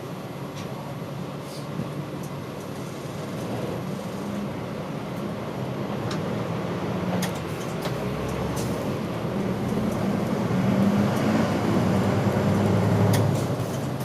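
Route bus's diesel engine running as the bus drives, heard inside the passenger cabin, getting louder over the second half as it pulls harder, with a few light clicks and rattles.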